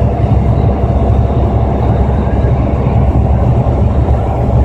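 Steady low rumble of a car driving along the highway, heard from inside the cabin: engine and road noise at an even, constant level.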